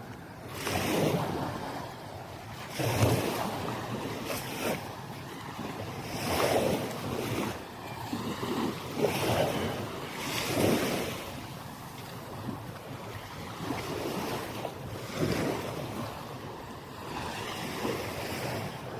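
Small sea waves washing onto a sandy beach, surging every few seconds, with wind buffeting the microphone.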